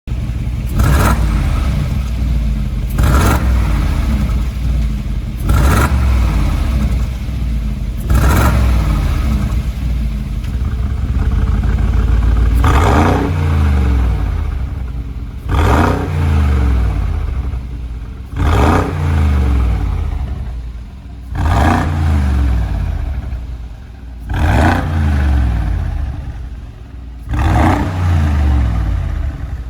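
Mercedes-AMG G63's twin-turbo V8 through an Akrapovic valved full exhaust with link pipes, revving up and dropping back over and over, about every two and a half seconds. Each rev is marked by a sharp crack.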